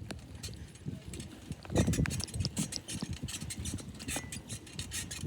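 Noise of a bicycle ride picked up by a handheld or loosely mounted camera: irregular clicking and rattling, with a louder low rumble about two seconds in.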